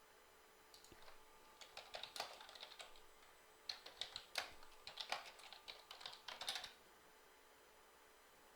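Typing on a computer keyboard: irregular bursts of quick key clicks, starting about a second in and stopping shortly before seven seconds.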